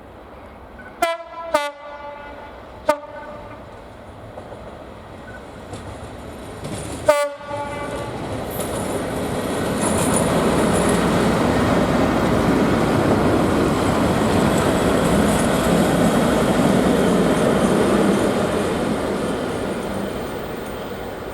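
Diesel locomotive giving four short horn toots, three close together and one about four seconds later. The train then passes, its engine and wheel rumble building, holding for several seconds, then fading away.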